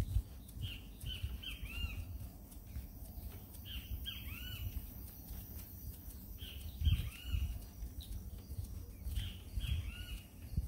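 A bird calling outdoors in short, arched notes in groups of two or three, repeating every two to three seconds, over irregular low thumps and rumble.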